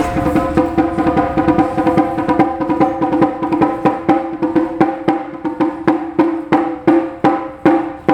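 Taiko drums struck in a fast roll that gradually slows, the strikes spreading out toward the end, with the drum's ringing tone held under the hits.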